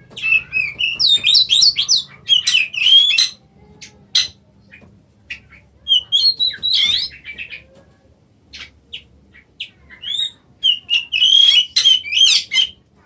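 Oriental magpie-robin (kacer) singing: rapid whistled phrases of sliding, varied notes in three bursts, with scattered single notes between them.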